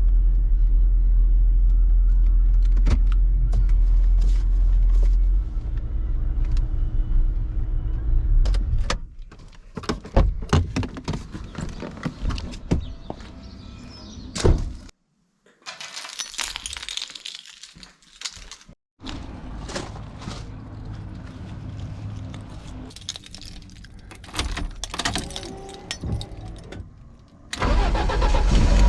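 BMW E36's engine running cold as a steady low rumble for the first several seconds and again near the end. In between, a run of clicks, knocks and handling noises, broken by two short cuts to silence.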